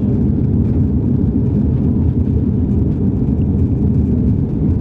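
Steady, loud cabin noise inside an Airbus A330-200 with its jet engines at high thrust: a dense, even rumble strongest in the low range, with no distinct events.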